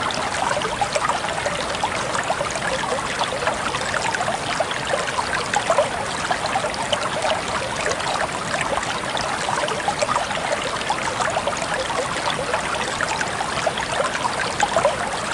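Water trickling and splashing steadily down a miniature decorative waterfall, a continuous stream with many small splashes.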